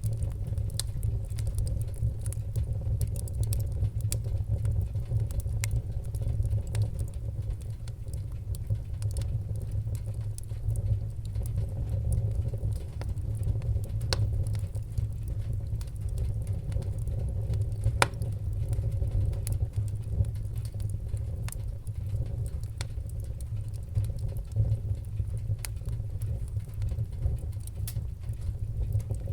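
Wood-burning fire crackling: frequent sharp pops and snaps over a steady low rumble of the flames, with one louder pop past the middle.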